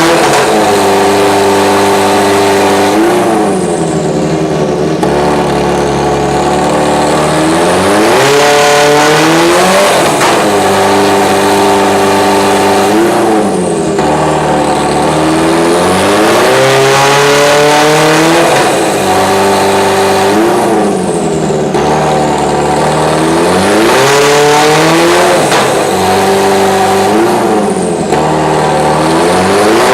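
Subaru Legacy B4 GT300 race car's engine running loud, its pitch repeatedly climbing and then dropping every few seconds as it revs and comes off the throttle or shifts.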